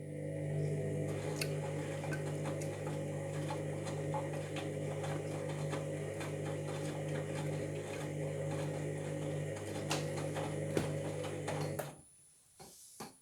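Washing machine motor turning the drum in one direction during the wash: a steady hum with rapid ticking and clicking over it, stopping abruptly about twelve seconds in. The machine is one whose drum and motor noises the owner suspects of a fault.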